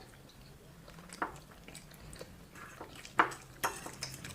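Quiet eating sounds: a few soft clicks, once about a second in and twice around three seconds in, over a low steady room hum.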